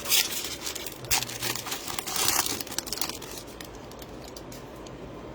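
Crinkling of a plastic trading-card pack wrapper as it is handled and opened, in quick crackly bunches that die down after about three seconds.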